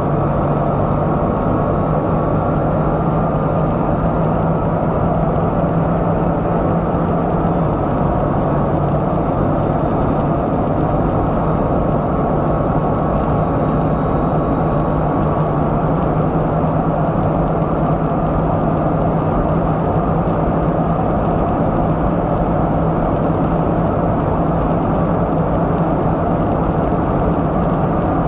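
Bugatti Chiron Super Sport running at a steady high speed: a constant engine drone under dense road and wind noise, with no gear changes or rise in pitch.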